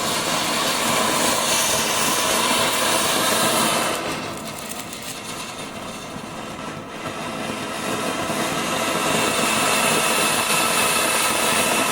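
A ground firework hissing steadily with a loud, even rush, easing off for a few seconds in the middle and then building again.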